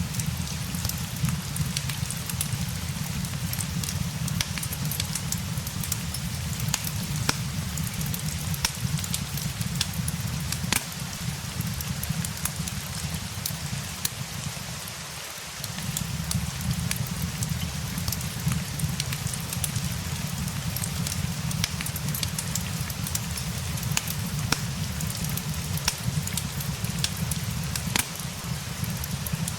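Steady rain mixed with a crackling fireplace: an even hiss of rain scattered with many sharp crackles and pops from the fire, over a deep rumble that drops away for about a second midway.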